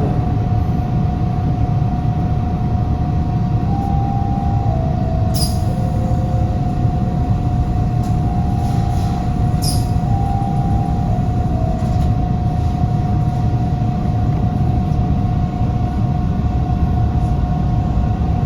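TTC Line 2 subway train running on the track, heard as a steady low rumble with a constant whine. Short tones step up and down in pitch for several seconds, and two sharp clicks come about five and ten seconds in.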